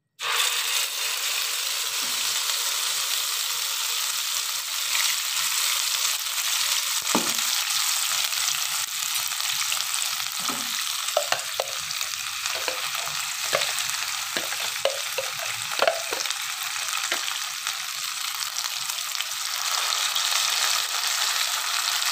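Chopped green chilies sizzling in hot oil in a wok, a steady dense frying hiss. From about a third of the way in come scattered knocks and scrapes of a utensil against the wok and bowl as the chili paste is scraped in and stirred.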